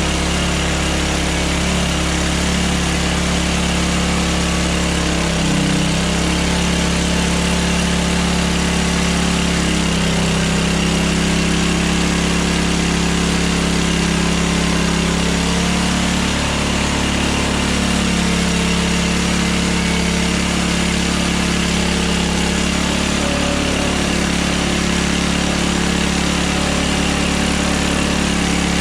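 Hudson Hunter portable band sawmill's engine running steadily.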